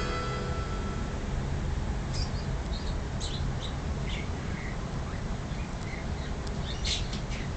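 Parrot giving short, high chirps and squeaks every second or so, starting about two seconds in, over a steady low background noise.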